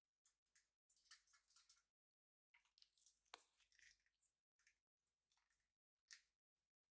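Faint, quick high-pitched chirps, chatter and clicks from pet budgies, with one short falling note about three and a half seconds in.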